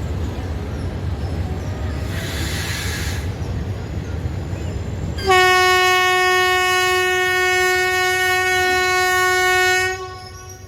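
Train running with a low steady rumble, then its horn sounds one long, loud blast on a single pitch for about four and a half seconds, cutting off sharply.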